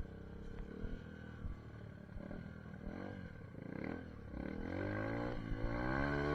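SSR 150 dirt bike's engine revving as it is ridden: the pitch rises and falls a few times, then climbs steadily and gets louder near the end as the bike accelerates.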